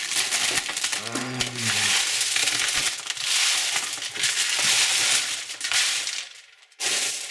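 Plastic candy wrappers crinkling and crackling as they are handled and squeezed, with a brief pause about six and a half seconds in before the crinkling starts again.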